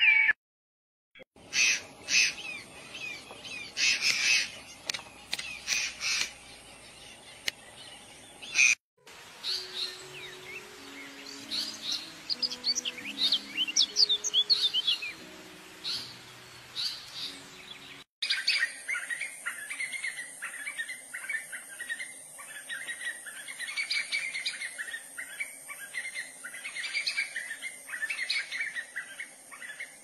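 Bird calls and chirps in three stretches, each starting abruptly after a brief break. In the middle stretch quick high chirps sit over a few soft, low musical notes, and the last stretch is a steady run of repeated calls, several a second.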